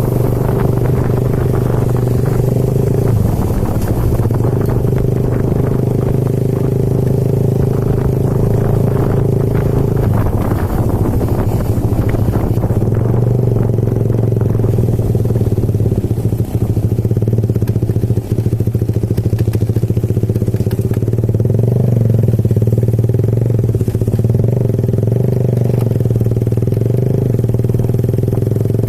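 Motorcycle engine running at a steady speed, with light rattling and clatter over it.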